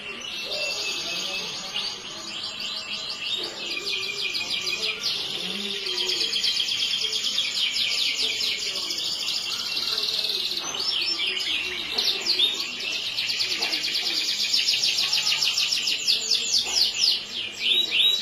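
Yellow domestic canary singing a long unbroken song of rapid trills and chirps, growing louder toward the end.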